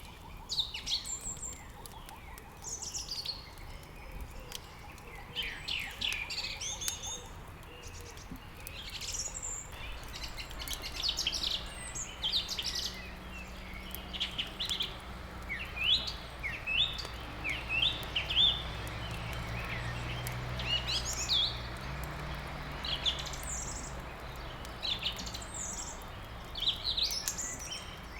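Songbirds chirping and singing in quick overlapping calls, with faint crackles from a wood fire. A low steady hum comes in about ten seconds in.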